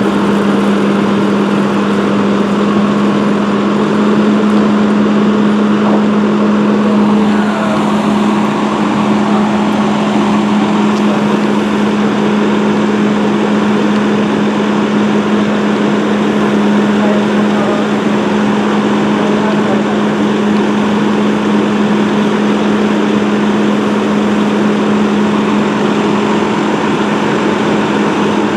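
Fire engine's diesel engine running steadily at a constant speed, one unchanging drone under a broad rumble.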